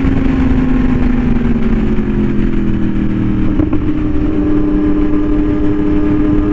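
Yamaha R1M's crossplane inline-four running through an SC Project exhaust at a steady cruise. Its pitch eases down slightly over the first two seconds, then holds, over a steady rush of wind noise.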